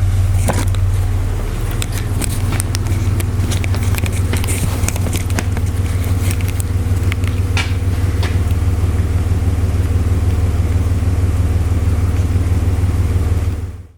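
A truck engine idling steadily in the background, a continuous low hum, with scattered clicks and taps over it in the first half. The sound cuts off abruptly near the end.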